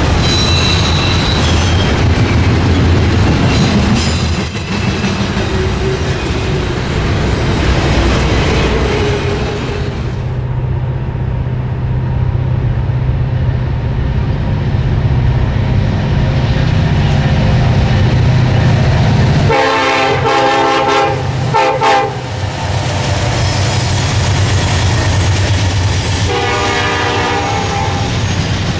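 Norfolk Southern freight train: cars rolling past with steady wheel and rail noise, then a diesel locomotive's engine drone as the next train approaches. Its air horn sounds a short series of blasts about two-thirds of the way in and once more near the end, as the cars pass.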